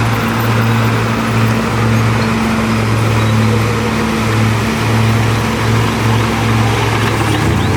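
Heavy diesel engine of earthmoving equipment running steadily under load, with a deep drone that swells and dips slightly.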